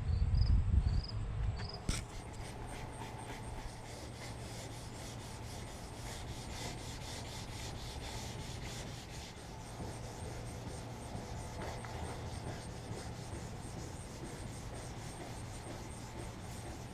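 Hand sandpaper rubbing over painted aluminum in steady, repeated strokes, as in wet sanding runs out of a fresh paint coat, over a steady low hum.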